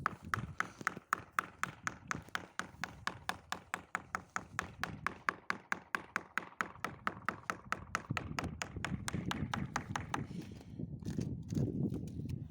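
A screwdriver tapping at the ice on a frozen car door, fast even taps, about four or five a second. The taps stop about ten seconds in and a low rough noise follows.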